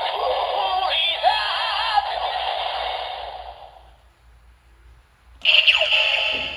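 Electronic music and synthesized voice from a Kamen Rider Zi-O transformation toy's small built-in speaker, fading out about three and a half seconds in; a new burst of toy sound starts about five and a half seconds in.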